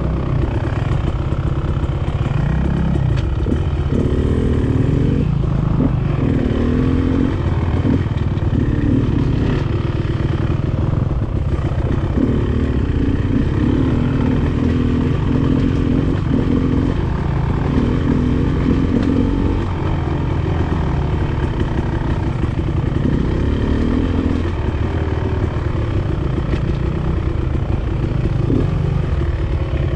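Enduro dirt bike engine running as the bike is ridden along a rough trail, its pitch rising and falling again and again as the throttle is opened and closed.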